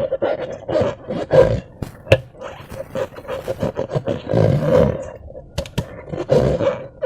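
Slime being squeezed and worked by hand: a run of irregular wet squelches and squishes, with a few sharp clicks about two seconds in and near six seconds.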